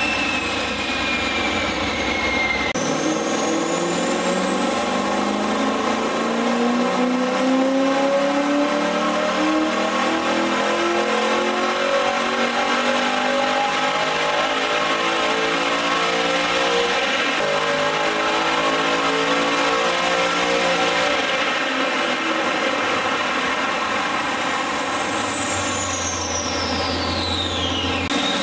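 A modified 6.0-litre LS2 V8 in a VZ GTO, with a custom cam and ported heads, running a wide-open-throttle pull on a chassis dynamometer. The engine note and the tyre-and-roller whine climb steadily for about eighteen seconds. Then the throttle closes and the engine and rollers wind down near the end.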